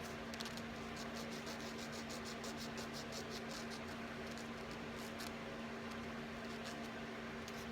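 Nail file rasping against a cockatoo's toenail in quick short strokes, several a second, thinning out after about five seconds, over a steady low electrical hum.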